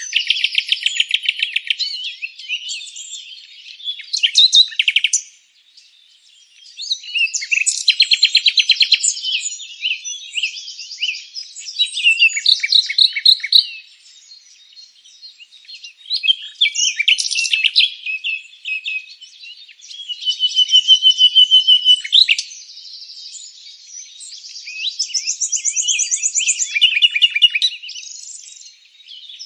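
A chorus of several songbirds singing and chirping, in overlapping phrases of a few seconds with fast trills and rapid runs of repeated notes, and short lulls between.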